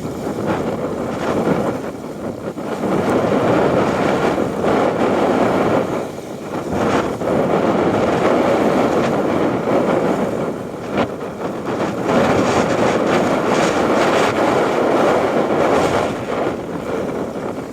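Strong wind gusting on the microphone, swelling for several seconds at a time with a few brief lulls.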